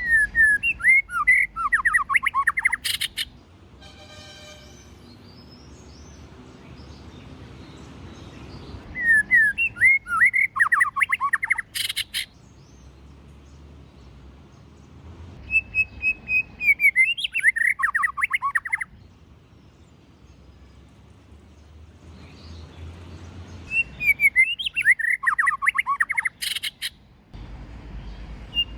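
White-rumped shama singing in four separate bursts of rapid, varied whistled notes. Each phrase ends in a sharp click, and there are short pauses between phrases.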